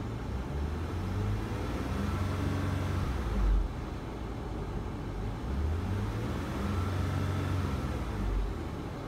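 2003 Cadillac CTS 3.2-litre V6 revved twice from idle, each time rising and falling back, heard from inside the cabin. The engine is warmed up and revs smoothly.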